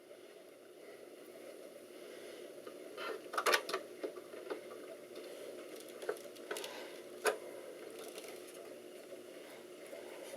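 Small clicks, taps and knocks of RAM modules being handled and pushed into a desktop computer's memory slots, with a cluster of sharper clicks about three seconds in and single knocks later, over a faint steady hum.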